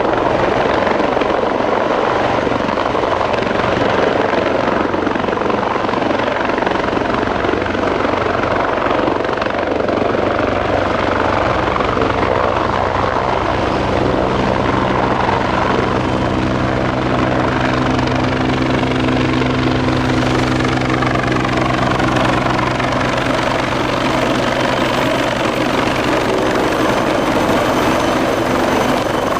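Bell 430 twin-turbine helicopter running close by: steady loud rotor and turbine noise. A low humming tone comes up about halfway through and fades again near the end.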